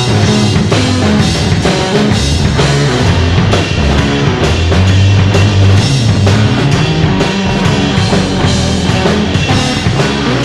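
Loud rock music with a driving drum kit, bass and guitar, no singing.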